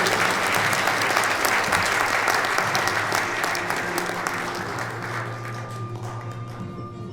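Audience applauding, dying away after about five seconds, with background music playing beneath it.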